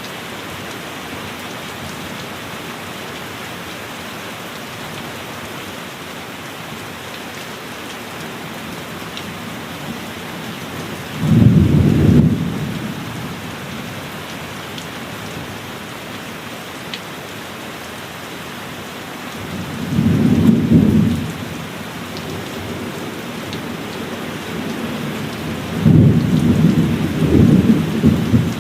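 Steady heavy rain, with thunder rumbling three times: a burst about eleven seconds in, another near twenty seconds, and a longer rolling one near the end.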